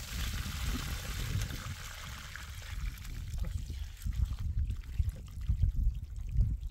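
Running water: a steady hiss that sets in at the start and fades away after about four seconds, over low, irregular rumbling.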